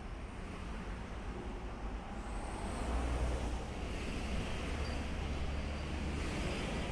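Steady low rumble of road traffic, growing louder about three seconds in.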